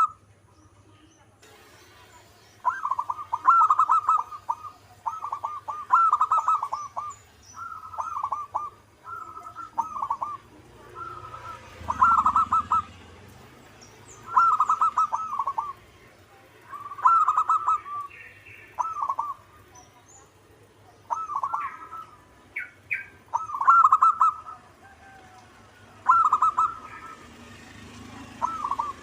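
Zebra dove (perkutut) singing its cooing song over and over, each burst of quick rolling coos lasting about a second, with a pause of a second or two between bursts. Fainter high chirps from small birds come in between.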